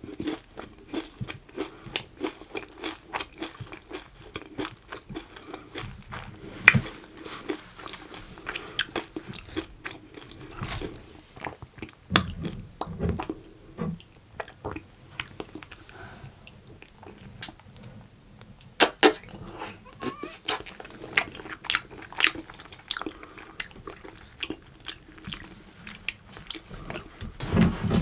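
Close-miked eating: a person biting and chewing, with many irregular sharp clicks and mouth sounds, which thin out briefly about two-thirds of the way through.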